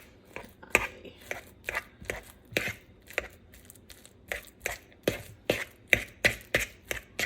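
Bananas being mashed in a bowl: a steady run of short strokes, about three a second.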